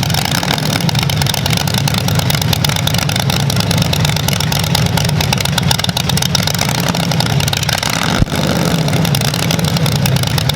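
A car engine idling with a steady, rapidly pulsing rumble. There is a single sharp knock about eight seconds in.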